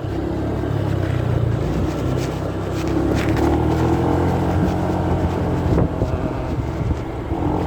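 Motorcycle riding along, its engine and road and wind rumble heard muffled through a phone carried in a pocket, with a few brief rubbing clicks.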